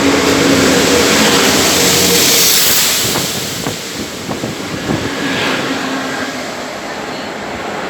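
A train running past close by: a loud rush with a steady low hum for the first few seconds, then wheels clicking over the rail joints as the noise eases.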